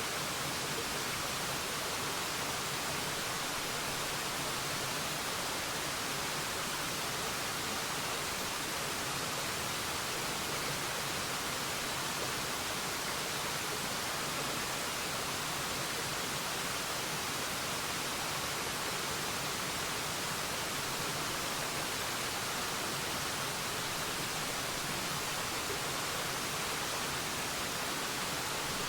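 Waterfall: a steady, even rush of falling water that holds constant throughout, strongest in the hiss rather than the low rumble.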